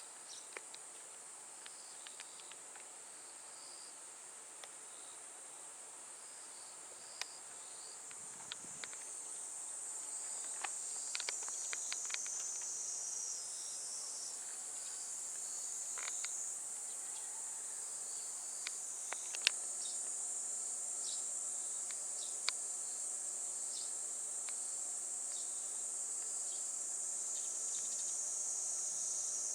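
Insects shrilling in a steady high drone that grows louder about eight seconds in, with scattered faint clicks. A steady low hum joins about twenty seconds in.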